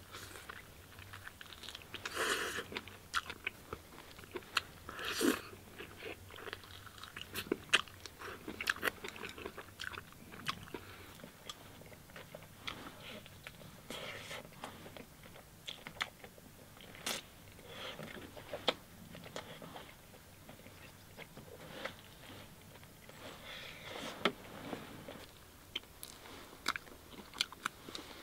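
A man biting and chewing mouthfuls of chicken with loud mouth noises: wet smacks and crunches with many sharp clicks scattered irregularly throughout.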